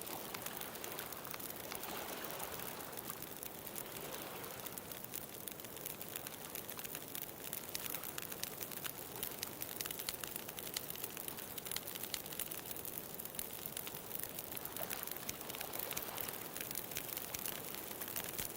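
Wood bonfire crackling steadily with many small pops, over ocean waves washing onto the shore that swell up near the start and again near the end.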